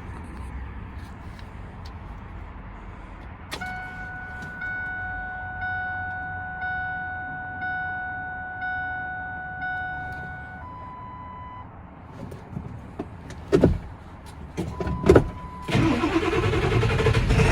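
Key-on in a 2000 Ford F-350: a click, then a chime repeating about once a second while the glow plugs heat, then a few knocks. Near the end the 7.3 L Power Stroke V8 turbo-diesel cranks and catches, starting readily in the cold on its new glow plug relay.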